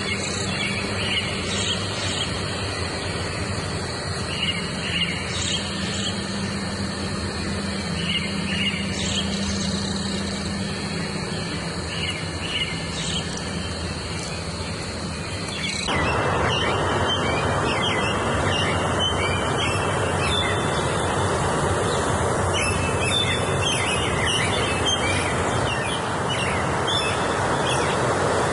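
Wild songbirds chirping and trilling in short repeated phrases over a steady background hiss. About halfway through, the background hiss abruptly gets louder.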